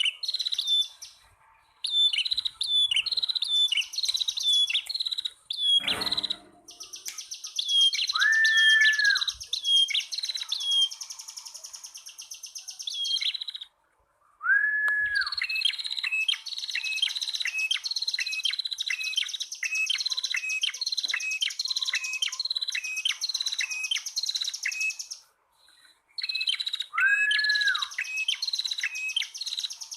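Male and female prenjak tamu (prinias) calling together: rapid strings of sharp chirps over a buzzy trill, broken by a few short, lower slurred whistles and brief pauses, with a single thump about six seconds in.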